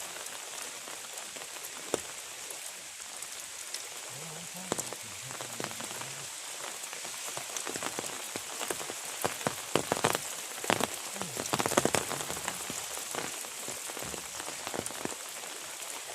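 Heavy rain falling steadily, with a cluster of sharp clicks and knocks about ten to twelve seconds in.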